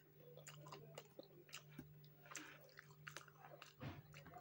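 Faint close-up chewing: a person chewing a mouthful of food with her mouth closed, soft wet clicks coming irregularly, over a low steady hum.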